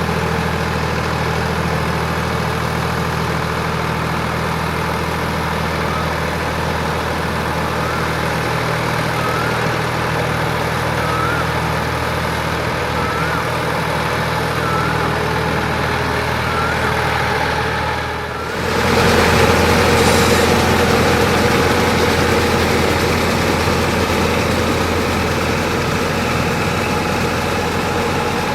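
Sonalika DI 47 RX tractor's diesel engine running steadily under load in paddy-field mud. About two-thirds of the way through, the sound dips briefly and the engine then comes back louder.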